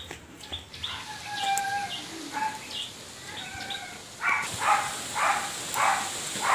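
Birds calling: a few short whistled notes, then from about four seconds in a run of harsher repeated calls, about two a second.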